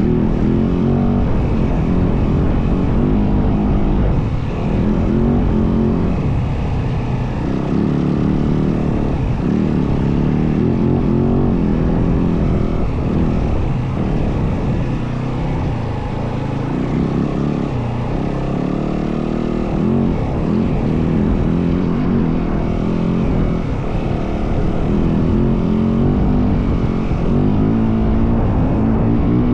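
Yamaha WR450F dirt bike's single-cylinder four-stroke engine running under way, its revs rising and falling repeatedly as it is ridden.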